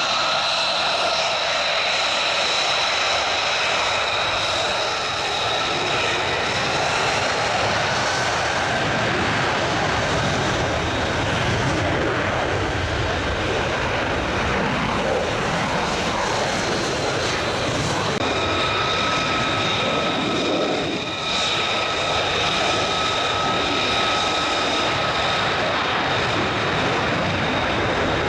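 Military jet engine running with a steady roar and a high turbine whine; the whine fades in the middle and comes back strongly about two-thirds of the way through.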